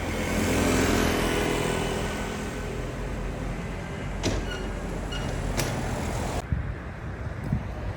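City street ambience with road traffic: a vehicle's engine hum swells as it passes about a second in, two sharp clicks come later, and the sound then changes abruptly to a duller street hum.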